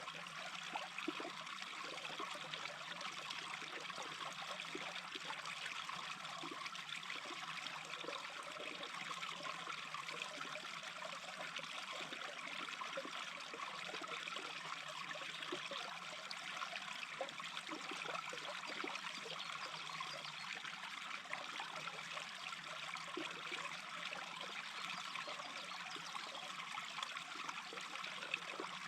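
A small brook babbling steadily, with an even watery rush and fine bubbling throughout.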